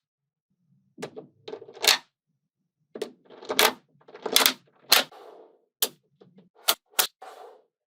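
Small magnetic balls clicking and snapping together as they are handled, in sharp clicks at irregular intervals, some with a brief rattle after them.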